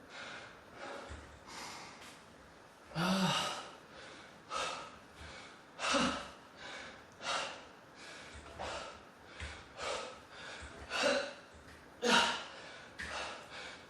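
A man breathing hard through a timed set of pull-ups: forceful, gasping exhalations about once a second, some much louder than others.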